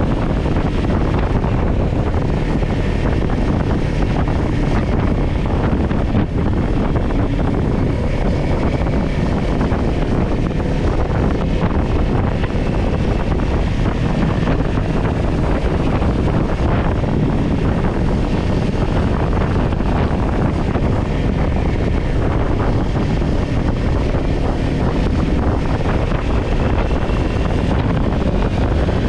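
Wind rushing over the microphone on a moving Kawasaki Ninja 400, with the bike's parallel-twin engine running steadily underneath.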